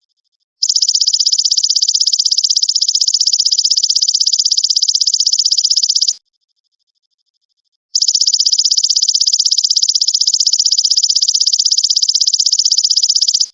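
Belalang emas (golden grasshopper) calling: a loud, high, rapidly pulsed buzzing trill in two long bouts of about five seconds each, with a short silent gap between them.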